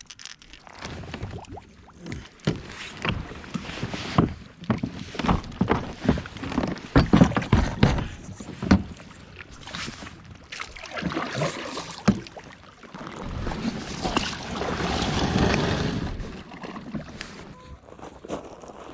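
Irregular knocks and clatter of gear being handled on a kayak, then a rush of noise that swells and fades over several seconds about eleven seconds in.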